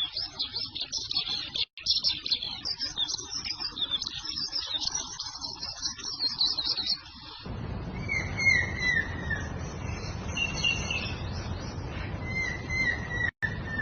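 Songbirds singing. Dense, high-pitched twittering runs for about the first half. Then the sound cuts to a different bird giving runs of short, falling chirps over a steady low rumble of background noise.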